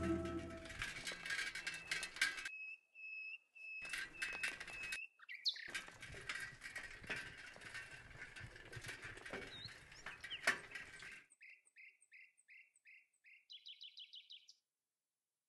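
Faint birdsong: a busy chorus of chirping birds. After about eleven seconds a single bird calls a string of short, evenly spaced notes, ending in a quick trill.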